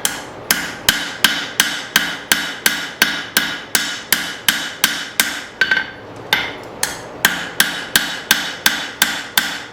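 Steady hand-hammer blows on hot leaf-spring steel over an anvil, about three a second, each ringing; a brief pause about six seconds in, then the blows resume. The blacksmith is hammering the back of the blade's spine to curve the blade.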